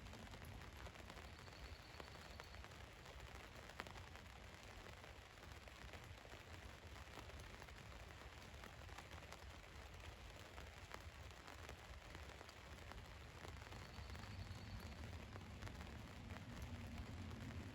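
Rain falling on a van's roof: a faint, steady hiss with many small scattered drop ticks over a low rumble.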